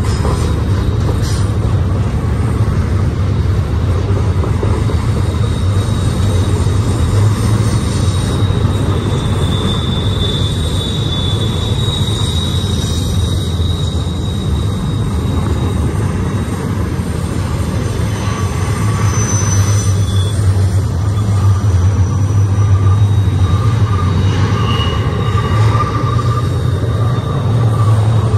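Double-stack intermodal freight train's well cars rolling past close by: a steady, loud low rumble of steel wheels on rail. Thin high-pitched wheel squeals come and go as the wheels grind around the curve.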